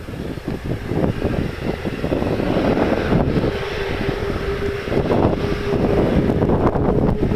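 Airbus A380 jet engines running, a loud rushing noise that grows louder at the start, with a steady whine that edges slightly higher near the end. Wind buffets the microphone throughout.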